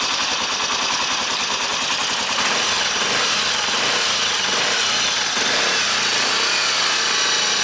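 Kawasaki Estrella's single-cylinder engine running steadily with an even, fast ticking, a little louder from about two seconds in. With the cylinder head overhauled, the loud clattering is gone; only a slight timing-chain noise remains, which the mechanic counts as normal mechanical noise.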